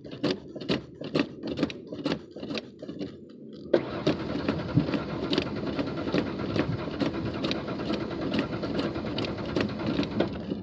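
A car's starter cranking a hard-starting engine that does not catch, coming in suddenly about four seconds in and running until near the end. A steady beat of about two strokes a second runs under it throughout.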